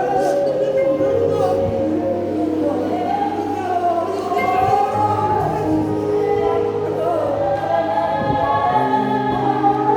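Gospel music with a choir singing over sustained chords and a held bass.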